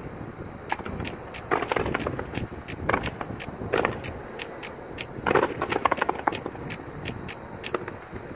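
Aerial fireworks going off: a rapid run of sharp pops and crackles, with louder clusters of bursts about every one to two seconds.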